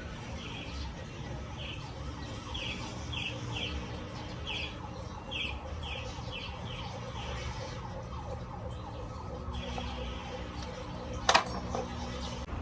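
Big bike's engine idling with a steady low hum. A series of short high chirps repeats over it for the first several seconds, and a sharp click comes near the end.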